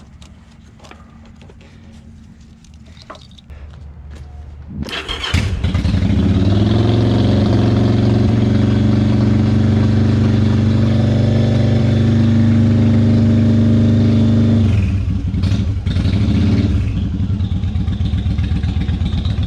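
Yamaha V-Star 1100's air-cooled V-twin with aftermarket pipes, started on freshly cleaned carburetors. After a few faint clicks, the starter cranks about five seconds in and the engine catches at once. It runs at a steady raised speed for about ten seconds, then drops back, is blipped briefly a couple of times, and settles into an idle.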